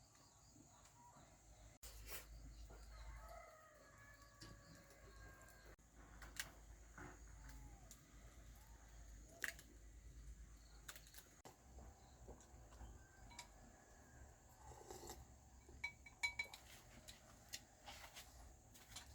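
Near silence: faint background hum with scattered soft clicks and knocks, and a few faint sliding tones a couple of seconds in.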